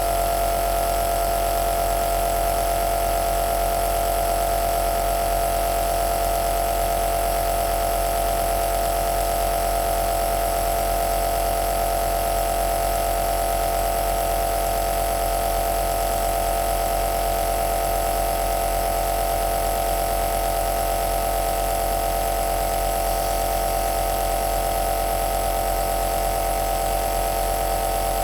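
Home nebulizer's compressor running steadily: an even motor hum with steady tones and a hiss of air.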